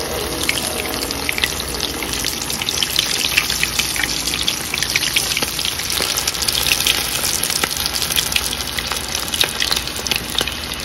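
Tempura frying in a pan of deep hot oil: a steady, dense sizzle with many small crackles and pops.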